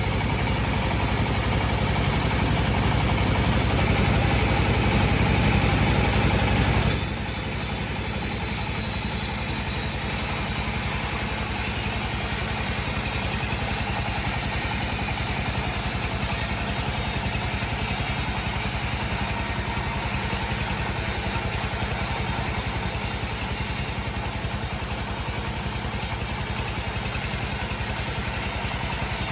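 Sawmill bandsaw running steadily with a constant engine-like hum. The sound changes abruptly about seven seconds in and then stays steady.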